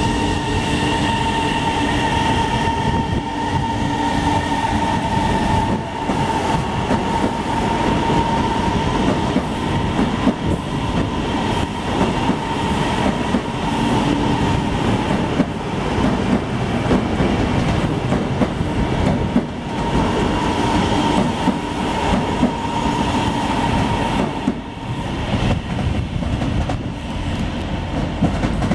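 CSR Zhuzhou electric multiple-unit commuter train running past at close range. Its wheels clatter over the rail joints, with a high steady whine that comes and goes.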